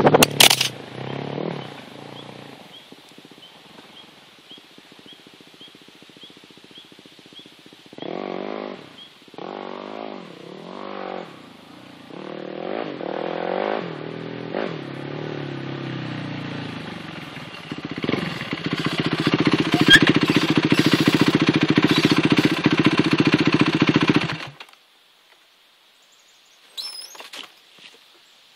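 Yamaha WR450F single-cylinder four-stroke dirt bike engine heard from a phone lying on the ground. It opens with a brief clatter, then runs faintly and revs up and down. Near the end it runs loudly close by for about six seconds before stopping suddenly.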